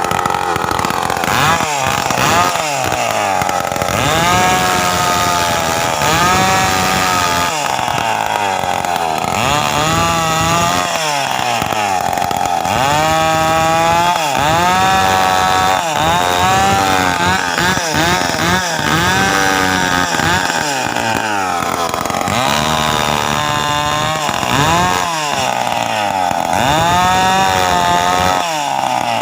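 Stihl two-stroke chainsaw being revved over and over, its pitch climbing and dropping back every second or two, a sound likened to a KTM motocross bike.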